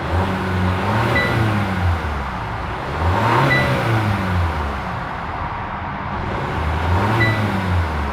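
Hyundai Sonata's 1.6-liter turbocharged four-cylinder engine revved from idle three times. Each rev rises in pitch and falls back to idle.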